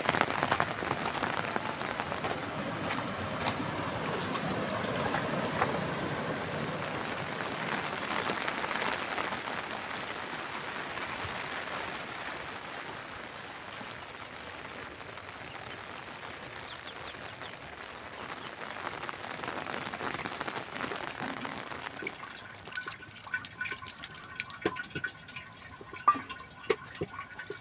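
Heavy rain falling as a steady, even hiss, which thins out about three quarters of the way through, leaving separate drips and small taps audible.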